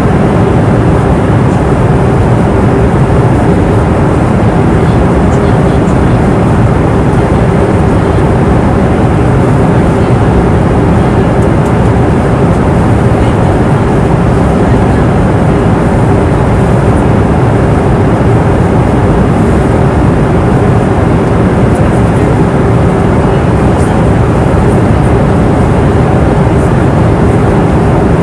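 Passenger airplane cabin noise in flight: a loud, steady rush of engine and airflow noise with a steady low hum running through it.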